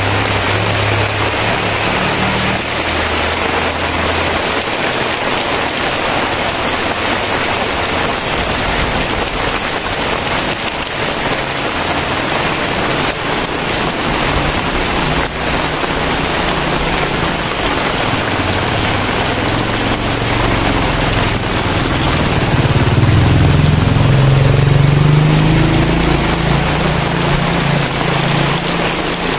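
Heavy rain pouring steadily on surfaces. A low rumble swells underneath about two-thirds of the way through, loudest shortly after, then eases.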